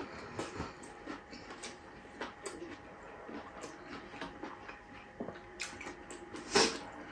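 Close-up eating sounds: a person chewing a mouthful of food, with many small wet clicks and lip smacks and one louder smack near the end.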